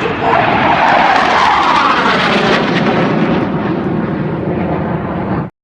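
Aircraft flying low past, a loud rushing engine noise whose pitch sweeps downward as it goes by; the sound cuts off abruptly near the end.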